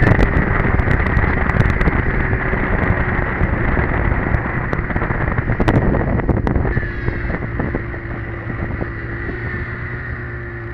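Polaris Edge snowmobile's two-stroke engine running on the trail with wind buffeting the microphone and scattered sharp clicks and knocks. About two-thirds of the way in it eases off and gets quieter, settling to a steadier, lower engine note.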